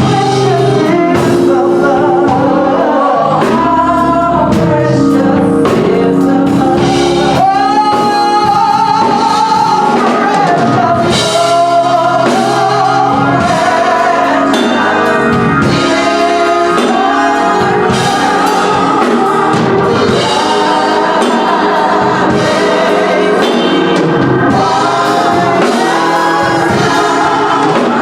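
A gospel song sung by a small choir over keyboard and drums.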